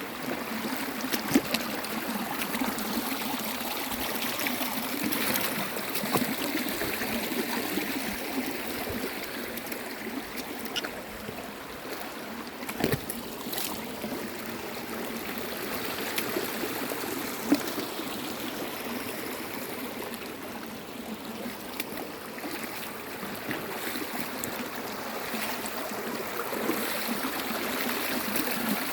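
Stream of water running steadily over stones, trickling and gurgling, with a few brief splashes.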